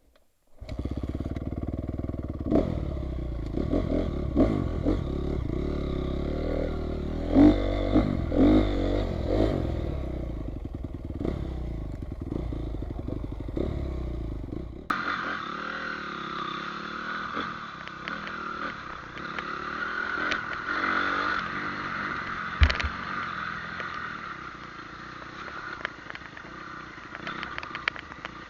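Motorcycle engine running while riding, its pitch rising and falling with the throttle. About halfway through, the sound cuts abruptly to a steadier, thinner run of the engine, with a single thud a little later.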